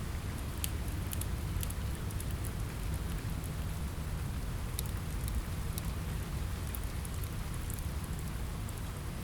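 Steady rain mixed with a crackling fireplace: an even wash of rain noise, heaviest in the low end, with scattered sharp crackles from the fire.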